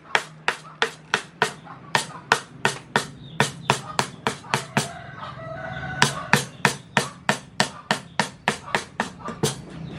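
Mallet striking a carving chisel into wood in a quick, steady rhythm of about three blows a second. About five seconds in the blows pause for a second while a rooster crows, quieter than the strikes.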